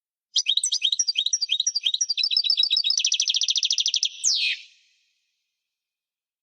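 European goldfinch singing one wadani-style song phrase, the kind used to tutor young goldfinches: a run of quick, high chirping notes, then a fast trill about a second long, ending in a single falling note. The song stops about five seconds in.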